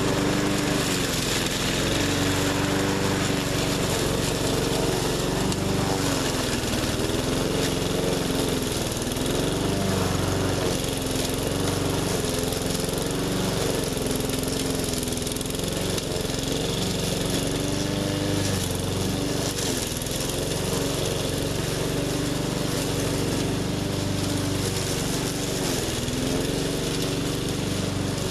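A 20-inch walk-behind push mower's engine running hard. Its speed sags and recovers several times as it bogs under load pushing through heavy brush.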